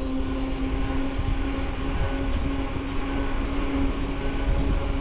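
Riding noise from a bicycle, heard from a handlebar-mounted camera: a heavy low rumble of wind on the microphone and tyres, with a steady, even-pitched whine running through it.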